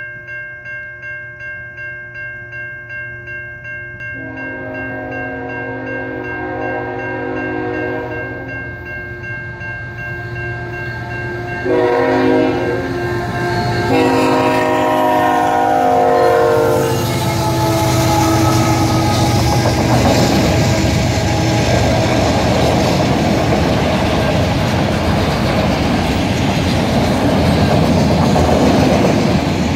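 Railroad crossing bell ringing rapidly as a train approaches sounding its horn: a long blast, then a short one and another long one, louder as it nears the crossing. From about 17 seconds in, the train passes the crossing at speed, its wheels clattering steadily over the rails.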